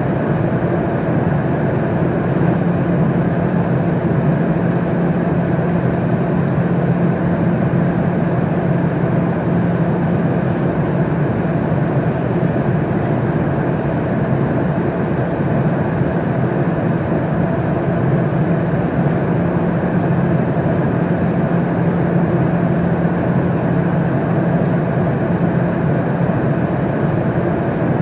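Steady airplane cabin noise in flight: an even, unchanging rumble with a low hum running through it.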